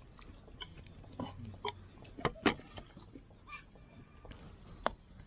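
A person eating and chewing, with scattered small clicks and knocks.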